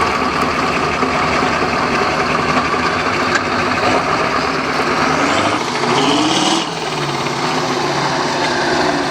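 Steyr trial truck's diesel engine working steadily, then revving up in a rising climb about five seconds in and falling off sharply a second or so later.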